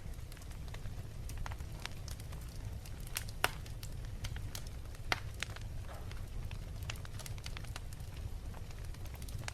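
Wood fire in a fireplace crackling, with irregular small pops and two louder snaps in the middle, over a steady low rumble.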